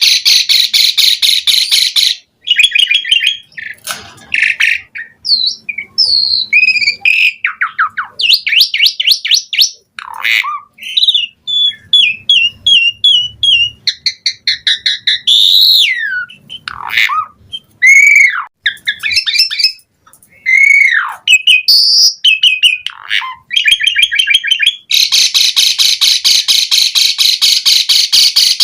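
Asian pied starling (jalak suren) singing a long, varied song: fast, harsh chattering rattles at the start and again near the end, with whistled notes and downward-sweeping calls in between.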